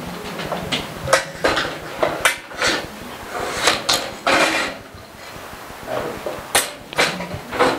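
Irregular clatter and rustling of medical equipment being handled as a blood pressure cuff is taken off the arm and put away, in a run of short, uneven noises.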